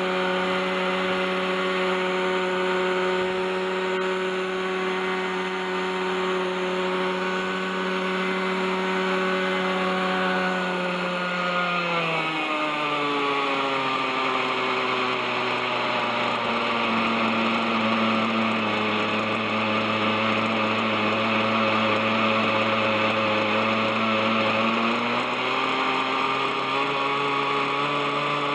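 Model helicopter's OS 61SF two-stroke glow engine and rotors running steadily. The engine note drops sharply about twelve seconds in, holds lower, then rises part of the way back near the end. The engine has gone over thirty years without maintenance and still has some drag from rusted bearings.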